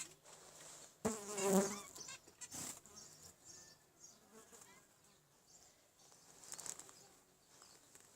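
Zebra finches giving short, buzzy, nasal calls and snatches of song, loudest about a second in, with a sharp click at its start and fainter calls later.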